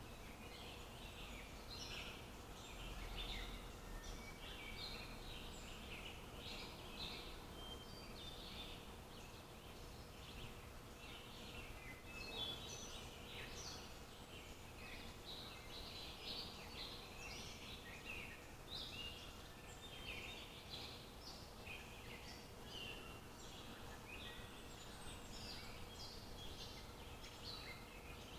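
Several small songbirds chirping and twittering continuously, many short overlapping calls, over a faint steady hum.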